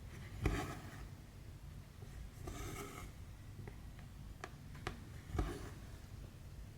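Embroidery thread being pulled through cross-stitch canvas in three short rasps, with a few sharp clicks of the needle piercing the fabric in between.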